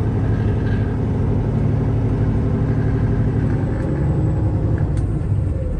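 Cummins 485 six-cylinder diesel engine of a 2010 Peterbilt 389 running steadily near idle, heard from the cab.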